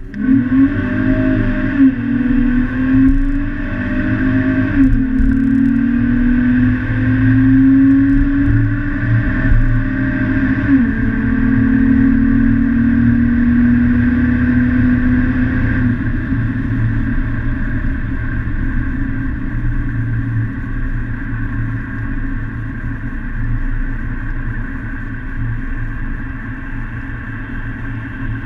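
Car engine heard from inside the cabin under hard acceleration, its pitch climbing and dropping back at upshifts about two, five and eleven seconds in. It then settles into a steady highway cruise with a low drone of engine and road noise.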